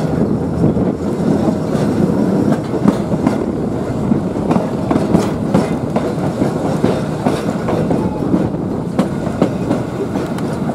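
Railroad passenger car rolling slowly over jointed track and switches, heard from on board. A steady rumble of the running gear, with wheels clicking irregularly over rail joints.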